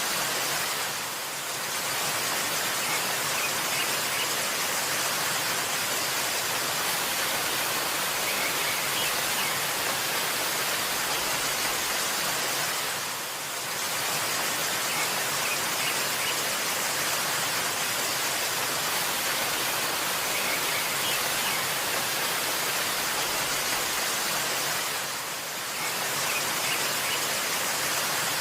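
Waterfall rushing in a steady, even hiss that softens briefly three times, about twelve seconds apart. Faint short bird chirps sound now and then.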